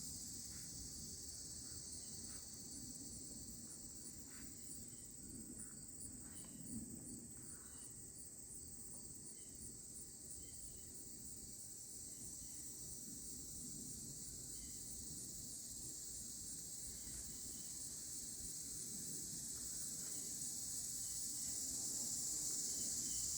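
Steady, high-pitched insect chorus: a continuous buzzing trill with a fast, even pulse, over a faint low rumble.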